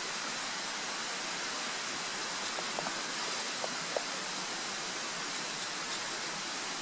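Steady rushing noise with a few faint ticks about halfway through.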